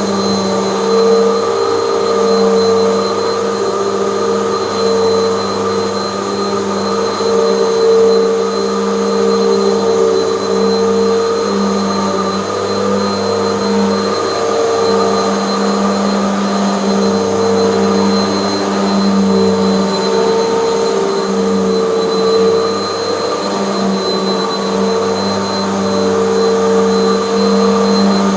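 Hoover bagless vacuum cleaner running continuously, a steady motor hum with a thin high whine above it, the hum swelling and dipping slightly as the machine is worked.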